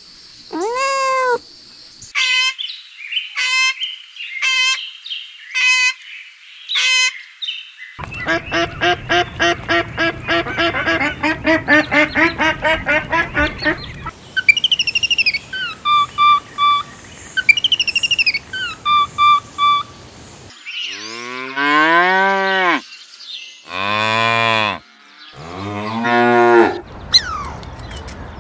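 A series of animal calls, one kind after another: short repeated calls, then a fast rapid-fire run of honking or quacking, then higher chirping bird calls, and near the end several long, low calls typical of cattle mooing.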